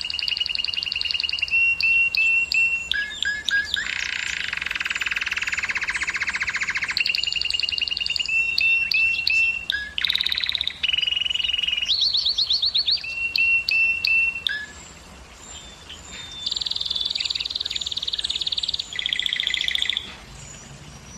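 Domestic canary singing a string of rapid trills. Each trill repeats one high note many times a second, and the bird switches to a new trill every second or two, with a brief lull about two-thirds of the way through.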